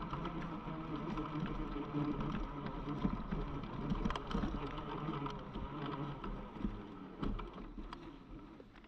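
UBCO electric motorbike on the move: a steady electric motor whine under wind and tyre noise, dropping away near the end as the bike slows.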